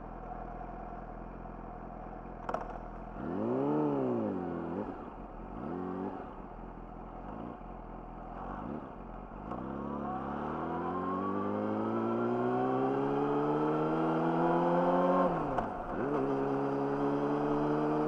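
Yamaha YZF-R6's inline-four engine through an Akrapovic slip-on exhaust: running low at first, then a couple of quick throttle blips that rise and fall in pitch. From about ten seconds in it pulls hard, rising steadily in pitch for about five seconds, drops suddenly at a gear change, then runs on in the next gear.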